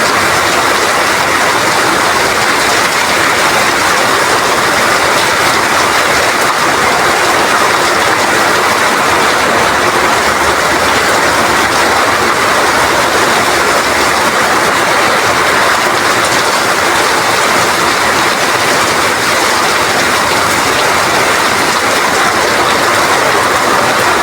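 Heavy rain falling steadily, a dense, even hiss that holds at one level throughout.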